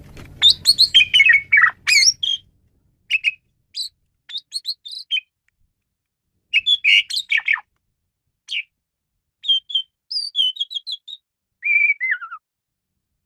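Male pied starling (jalak suren) singing a varied song of chattering, whistled and squeaky notes in short phrases with pauses between them, ending with a falling run of notes. A faint low rumble sits under the first couple of seconds.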